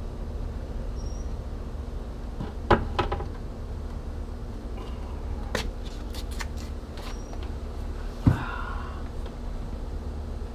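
A flat-head screwdriver clicking and knocking against the tight drain screws of an outboard's lower unit: a few scattered metal taps, a quick run of light clicks midway and one louder knock near the end, over a steady low hum.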